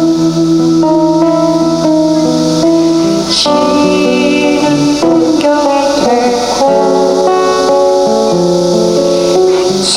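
Live band music with held melodic notes changing every half second or so over a steady shaker-like hiss, with a bright splash, like a cymbal, about three seconds in and again near the end.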